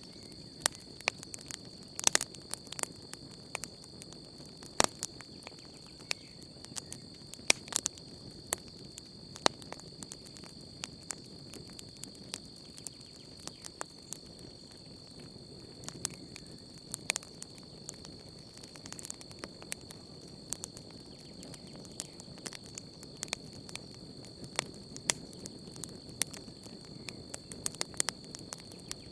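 Wood campfire crackling, with sharp pops at irregular intervals over a soft low rustle of the flames. A steady high insect trill runs beneath it.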